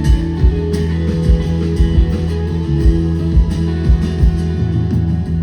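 Live band playing an instrumental passage of a rock song, with guitar over a bass line and a steady beat of about two low thumps a second.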